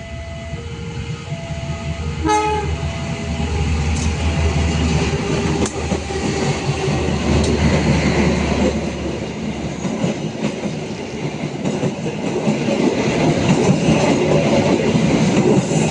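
Level-crossing warning signal alternating between two tones for the first few seconds, with a short train horn blast about two seconds in. Then a diesel train passes close by: a deep engine rumble for several seconds, followed by the rattle and clatter of the carriages rolling past.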